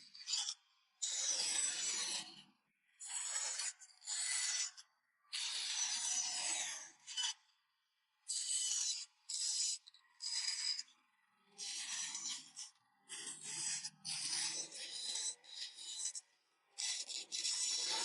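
Blade cutting into wood by hand in repeated scraping strokes: about fourteen strokes, each under a second to a second and a half long, with short pauses between.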